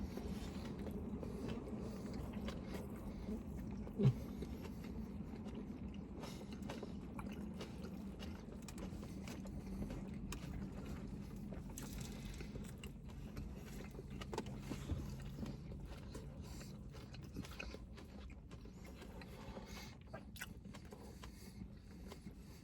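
People chewing mouthfuls of a deli sandwich with pickles, with soft crunches, over a low steady hum. A single short knock about four seconds in.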